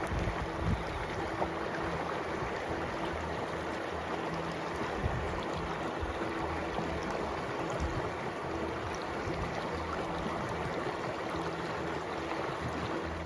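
Outdoor wind rushing and buffeting the microphone in a steady, gusty haze of noise.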